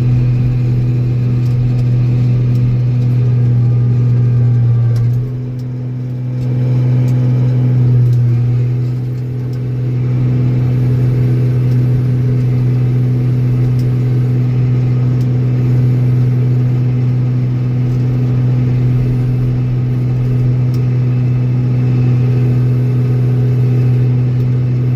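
Old Steiger four-wheel-drive tractor's diesel engine running steadily while plowing snow with a blade, its drone dipping briefly twice, about five and nine seconds in.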